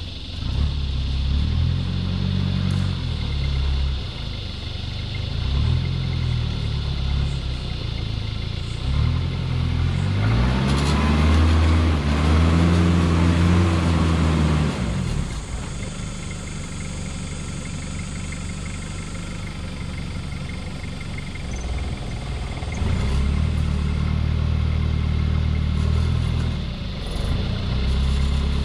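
Modified Toyota Hilux's 3.0 turbo diesel engine revving in repeated bursts under load as the truck crawls and back-and-fills up a steep off-camber climb. Its longest rise and fall in revs comes about ten to fifteen seconds in, with a rushing hiss over it, and after a steadier stretch the revving picks up again near the end.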